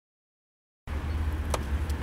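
A dead silence of just under a second, then a low, steady engine rumble comes in with two faint clicks.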